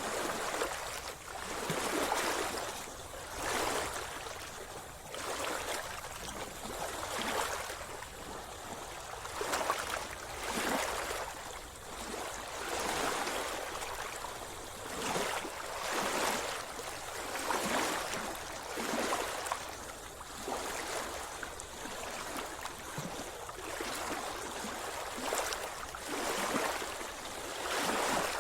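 Seawater splashing and sloshing around a swimmer, coming in regular surges about every second and a half, in time with swimming strokes.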